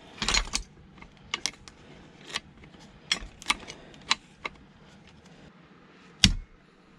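Irregular metallic clicks and taps of hand tools against metal parts as an object is taken apart by hand, with the loudest tap near the end.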